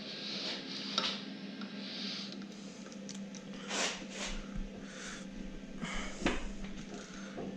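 Scattered light knocks and scraping of hand tools and metal engine parts being handled during a teardown, over a steady low hum.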